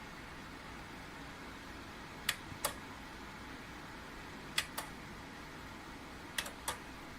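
Small ceramic fan heater blowing with a steady whoosh. Three pairs of sharp clicks come about two seconds apart.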